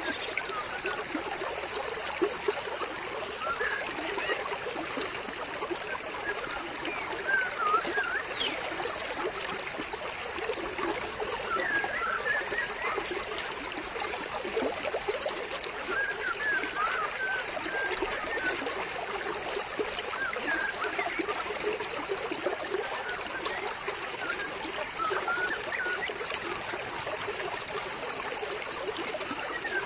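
Shallow stream water trickling and splashing steadily over stones, with short chirping notes around it every few seconds.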